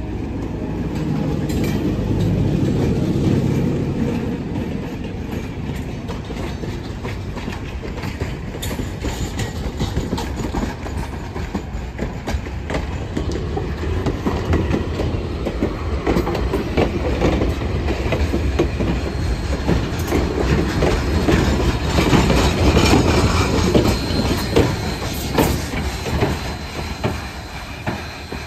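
Diesel switcher locomotive passing close with its engine running, then its passenger coaches rolling by, wheels clicking over the rail joints. From about two-thirds of the way through, a thin high squeal of wheel flanges on the rail.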